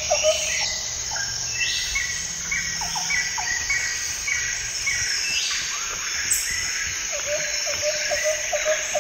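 Woodland ambience of insects buzzing steadily with birds chirping; one bird's short chirp repeats about four times a second at the very start and again from about seven seconds in.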